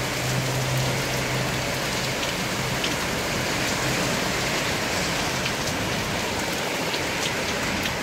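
Heavy rain pouring steadily onto a street, an even hiss. A low steady hum underneath fades out about two seconds in.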